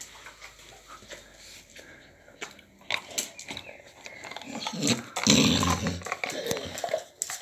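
A dog at play with a toy: scuffling, clicks and knocks, with a louder burst of rough noise from about five seconds in.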